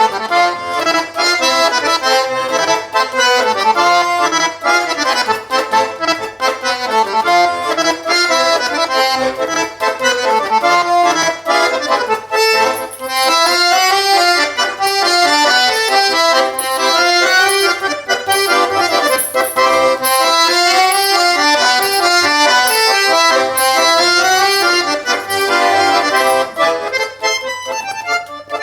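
Garmon (Russian button accordion) playing a quadrille solo: a quick, continuous run of notes over chords. About halfway through the playing turns fuller and brighter.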